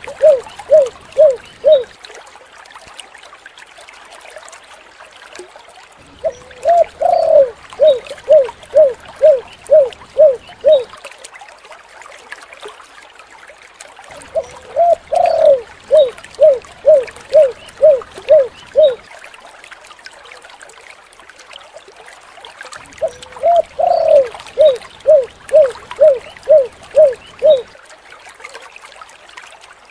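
Spotted dove (tekukur) cooing in three bouts of about nine short notes each, roughly two a second, every bout opening on a longer, higher note, with a few seconds' pause between bouts. A faint steady trickle of water runs underneath.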